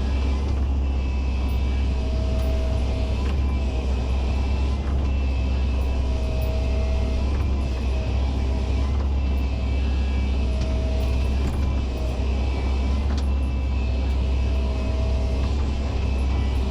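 Excavator's diesel engine running steadily with a heavy low rumble while it digs and scoops soil. A whine comes and goes every few seconds.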